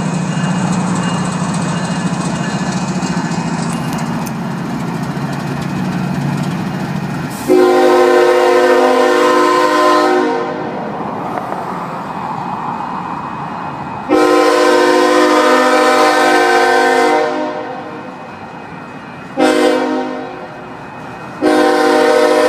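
A freight train of tank cars rumbling steadily across a steel truss bridge, then its locomotive horn sounds a chord in four blasts (long, long, short, long), the pattern sounded for a grade crossing. The horn blasts are the loudest sound.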